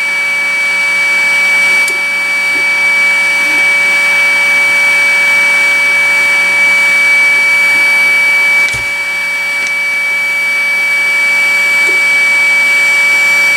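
A small electric blower, such as the fan of a hot-air rework station, running steadily. It gives a rushing hiss with a constant high-pitched whine. A faint click comes about two-thirds of the way through, and the sound gets slightly quieter after it.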